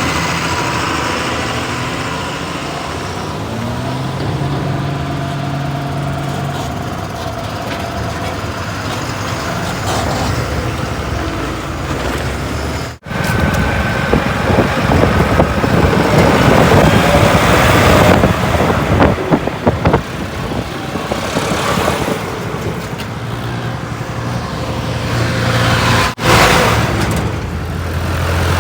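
Heavy diesel engines of earth-moving machinery and tipper trucks running under load, the engine note shifting up and down. The sound drops out for an instant twice, about halfway through and near the end.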